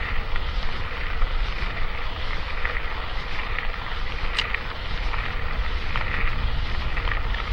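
Riding noise on an electric hub-motor mountain bike: wind buffeting the microphone over the steady rumble of the moving bike, with one brief high squeak about four and a half seconds in.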